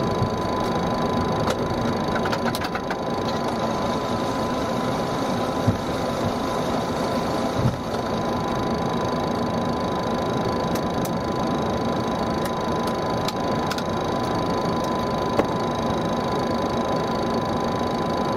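Boeing 737 cabin noise while taxiing after landing: a steady rush from the engines at idle, with a thin steady whine and interior trim creaking and rattling, with a few sharp clicks.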